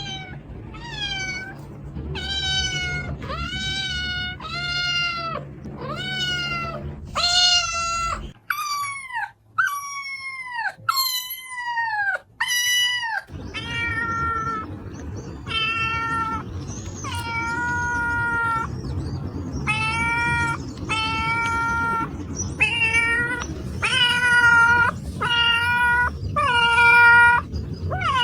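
Domestic cats meowing over and over, about one meow a second. Around eight seconds in the meows turn higher and fall sharply in pitch; from about thirteen seconds they come as a steady run of level-pitched meows over a faint background noise.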